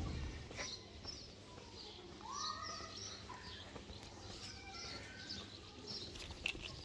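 Small birds chirping, with many short high calls scattered throughout and one longer rising call about two and a half seconds in.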